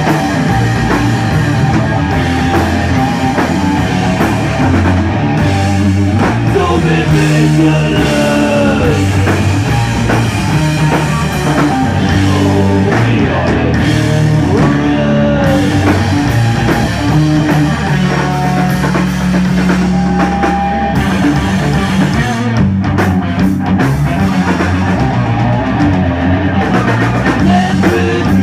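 Rock band playing live: loud guitar riffs over a drum kit, steady and unbroken, with some bending guitar notes.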